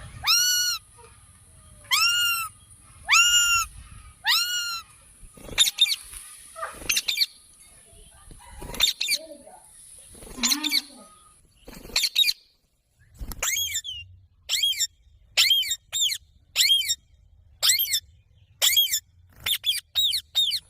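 Parrot calling with loud, sharp, arching calls: four about a second apart near the start, then after a pause a quicker run of shorter calls in the second half.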